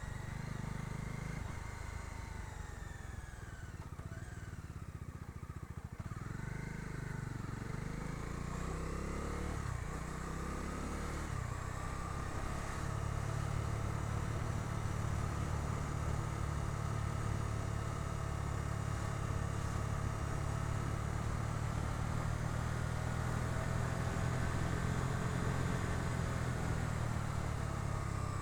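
Bajaj Dominar 250's single-cylinder engine heard from the pillion seat while riding. Its pitch falls and rises through gear changes in the first ten seconds or so, then settles into a steady cruise, a little louder.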